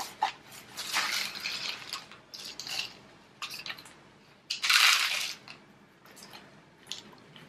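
Potting soil crunching and rustling as a cactus is worked loose from its pot and its root ball handled, with small clicks and knocks; the loudest scrape comes about five seconds in.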